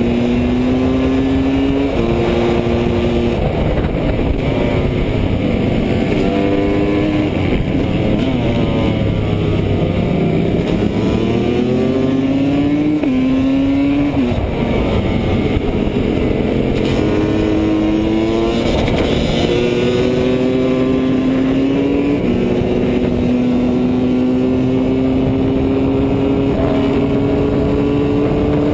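Husqvarna WR300 two-stroke engine heard onboard under race throttle. Its pitch climbs with the revs and drops sharply at each upshift, and it falls away as the bike slows for corners.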